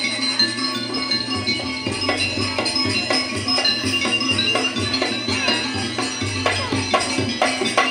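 Live jaranan accompaniment music: a Javanese gamelan-style ensemble playing continuously, with repeated percussion strikes and rattling over sustained high tones.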